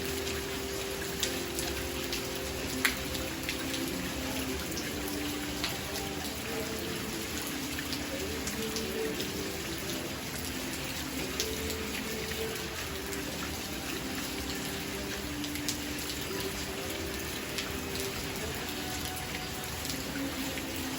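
Steady rain falling, with a constant hiss and many individual drops ticking sharply on a hard surface.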